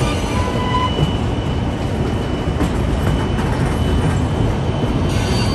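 White Pass and Yukon Route passenger train running on the track through a curve: a steady rumble of the cars, with thin high wheel squeals over it and a short sharper squeal about half a second in.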